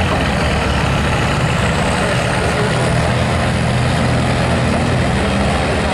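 Heavy engine of a pulling vehicle running steadily and loudly, with a faint high whine rising over the first few seconds.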